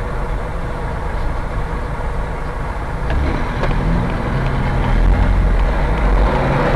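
Car driving: steady low engine and road rumble heard from inside the cabin, growing a little louder in the second half, with a few faint ticks about three seconds in.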